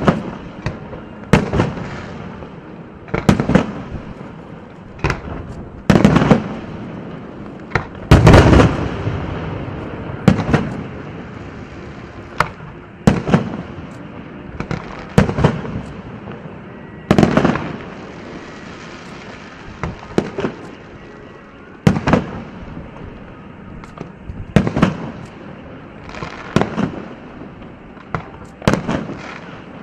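Fireworks display: aerial shells bursting one after another with sharp bangs about every one to two seconds, each trailing off in a rolling echo. The loudest cluster of bangs comes about eight seconds in.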